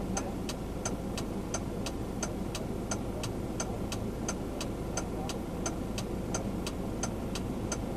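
Turn-signal indicator ticking evenly, about three clicks a second, inside a car's cab over the low hum of the engine and road.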